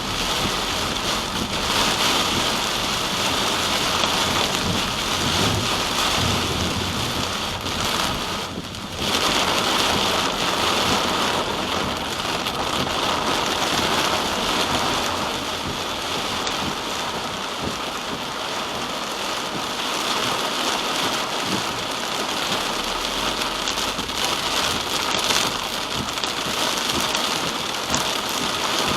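Steady rain on a car while it drives, a dense even hiss that dips briefly about nine seconds in.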